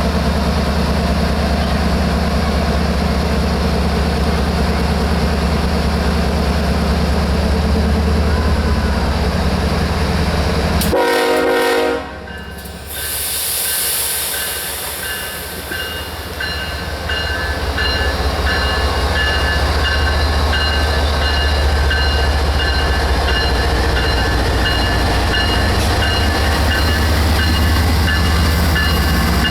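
Diesel locomotive running close by with a loud steady rumble, a short horn sound about eleven seconds in, then the rumble coming back with a bell ringing steadily through the second half.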